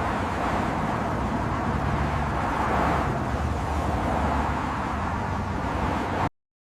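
Steady outdoor street ambience with a low vehicle rumble, like traffic or an engine running some way off; it cuts off suddenly near the end.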